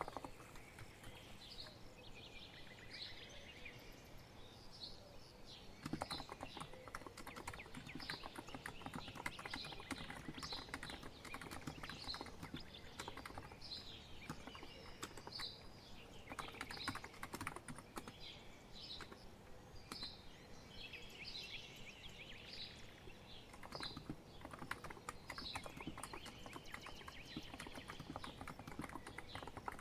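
Typing on a COX Empress electro-capacitive keyboard: rapid soft key presses in bursts with short pauses, starting about six seconds in. Songbirds chirp in repeated short high calls throughout.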